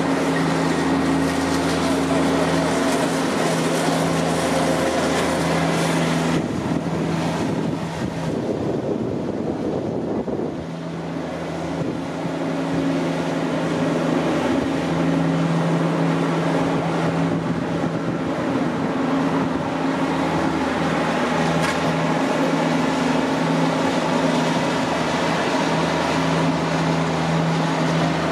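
Steady outdoor rail and traffic noise with two steady low hums, which fade for a few seconds about a quarter of the way in and then return, as an Elizabeth line Class 345 electric train approaches slowly.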